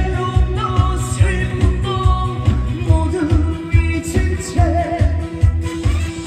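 A trot song performed live over a PA: a lead vocal sings over amplified band backing with a strong, steady bass beat.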